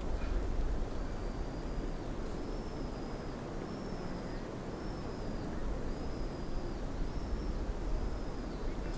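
A small bird giving a short, high, slightly arched call over and over, about once a second, over a steady low rumble.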